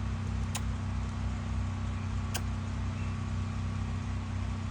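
Portable generator engine running with a steady low hum. Two brief sharp clicks are heard over it.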